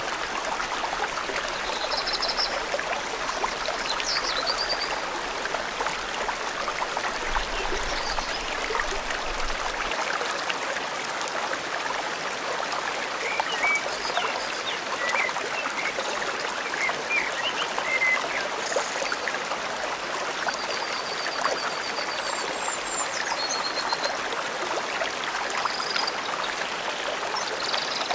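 A forest stream flowing steadily over rocks, with scattered short high bird chirps and a few quick trills over it, most of them in the second half.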